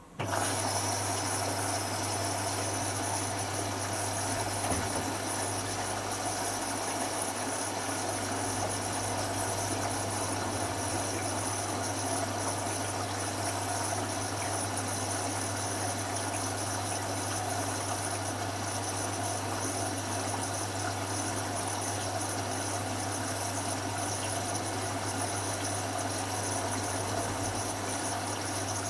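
Hotpoint Futura washing machine's drain pump switching on abruptly and running with a steady hum over rushing water, at the start of the cool-down after the hot main wash.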